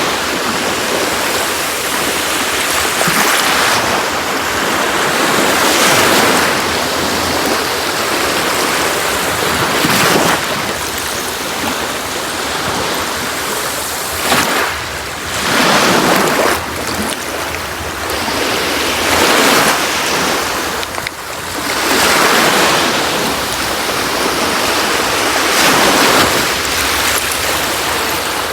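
Sea waves breaking and washing on a beach: a continuous rush of surf that swells with each wave every few seconds.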